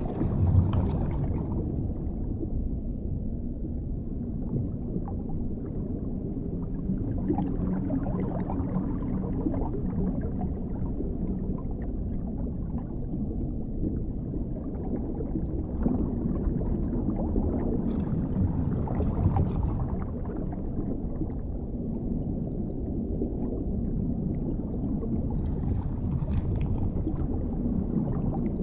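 Underwater ambience: a steady low rumble, with brighter swells rising out of it every few seconds and a short louder one near the start.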